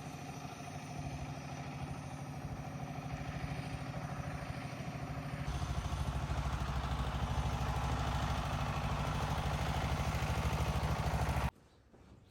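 An engine running steadily and growing louder, settling to a lower, heavier pitch about halfway through, then cutting off abruptly near the end.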